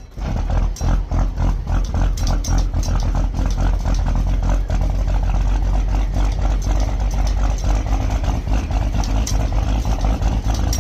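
12-valve Cummins diesel with compound turbos running steadily on a cold start, a dense, rapid diesel clatter with a deep low end.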